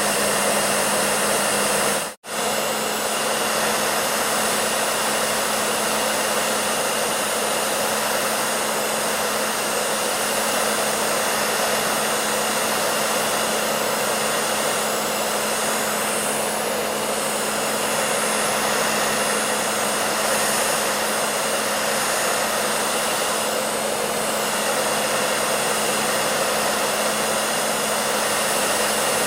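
Hair dryer running steadily: an even rush of air over a constant low motor hum. About two seconds in, the sound drops out for a split second and comes straight back.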